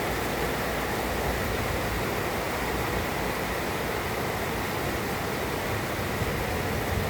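Heavy rain pouring down in a steady, even hiss with no thunder.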